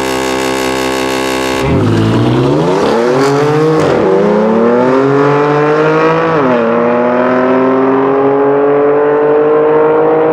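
BMW M3 F80's twin-turbo straight-six, through an iPE valved exhaust, held at steady high revs on the launch line. It then launches and accelerates hard, the pitch climbing through the gears with upshifts about 4 and 6.5 seconds in. A Mercedes-AMG CLA45 is accelerating alongside it in a drag race.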